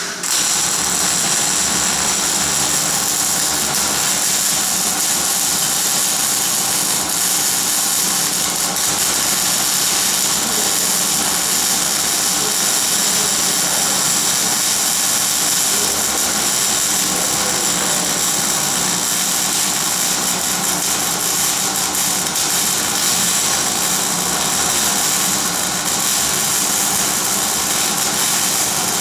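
Electric welding arc running steadily: a continuous loud crackling hiss that starts abruptly and holds for the whole weld pass.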